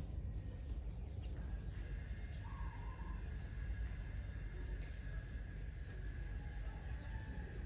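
Birds calling outdoors: a string of short, high chirps and one brief lower call a couple of seconds in, over a steady low rumble of wind or handling noise.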